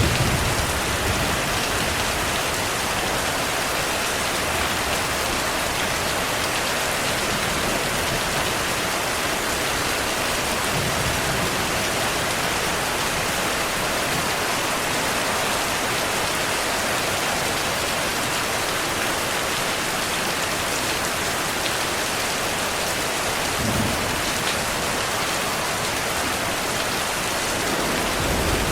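Heavy rain falling steadily, with a few brief low rumbles of thunder: one at the start, one about two-thirds of the way in, and more rumbling building near the end.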